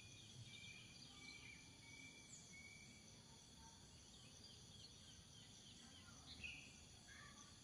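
Faint pine-forest ambience: a steady high insect hum with scattered short chirping calls over a low background rumble.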